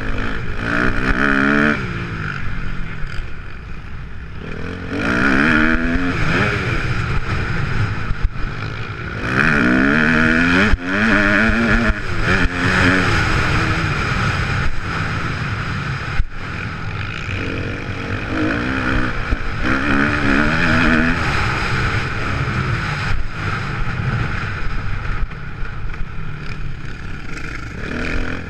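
Kawasaki KX250F four-stroke single-cylinder motocross engine revving hard, its pitch climbing and falling in repeated surges as the bike accelerates and backs off, with a couple of sharp knocks.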